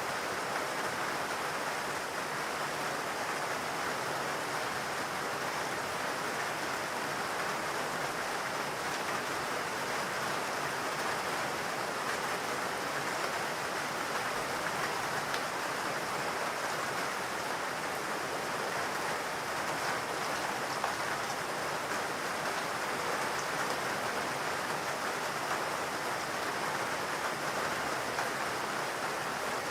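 Steady rain falling in a forest, an even hiss of drops with faint individual drop ticks.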